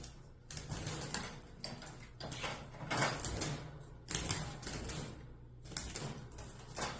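A parakeet fluttering in a wire cage while a hand rattles the cage trying to catch it. It comes as several spells of rapid clattering with short pauses between.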